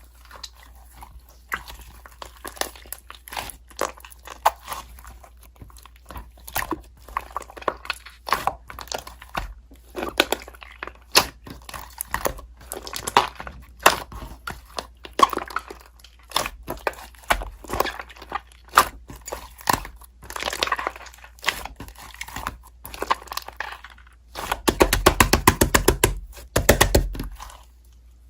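Slime being squeezed and pressed by hand, giving scattered sticky clicks and pops, with a fast, louder run of crackling clicks near the end.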